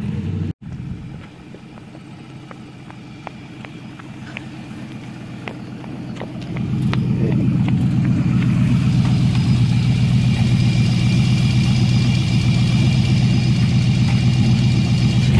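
The home-built Aventador replica's engine running at a steady idle close by. It is fainter at first, with a few light clicks, then becomes much louder about six and a half seconds in and holds an even pitch.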